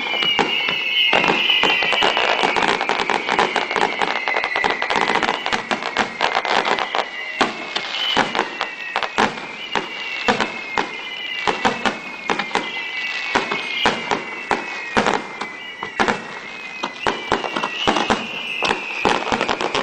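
Fireworks display: a dense run of sharp crackles and pops, with repeated overlapping whistles that slide down in pitch.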